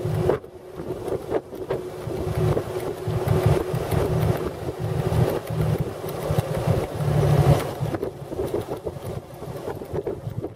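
The 1917 Buick's six-cylinder overhead-valve 242 engine running steadily while the open touring car drives along, with wind buffeting the microphone.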